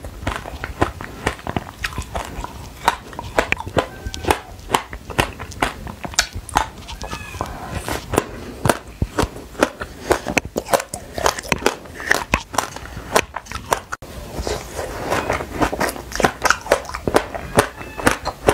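Close-miked crunching and chewing of black sesame seeds coating soft passion fruit balls, a fast, uneven run of sharp crackling clicks.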